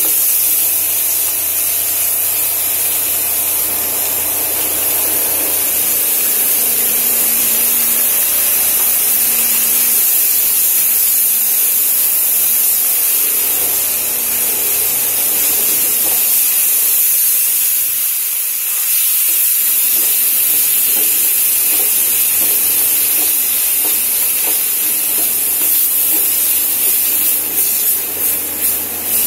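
Chickpea greens frying in hot oil and masala in a kadhai, a steady high sizzle as they are stirred and tossed with a wooden spatula, with a few light spatula scrapes near the end.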